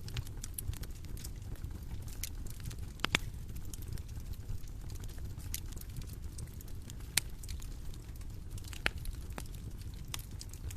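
Bonfire crackling, with scattered small snaps and three sharper pops of burning wood, about three, seven and nine seconds in, over a steady low rumble.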